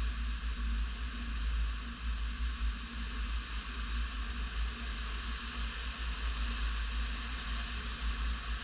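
Tropical-storm wind buffeting the microphone in a loud, uneven low rumble, over a steady hiss of wind-driven rain.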